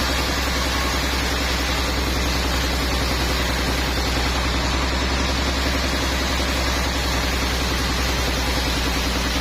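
Sawmill machinery running steadily: a strong low engine hum under an even hiss.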